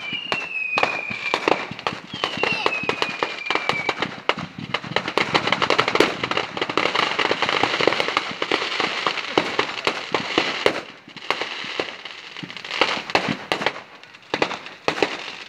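Fireworks going off: a dense run of crackling pops and bangs, with two whistles falling in pitch in the first few seconds. The crackling thins to scattered bangs near the end.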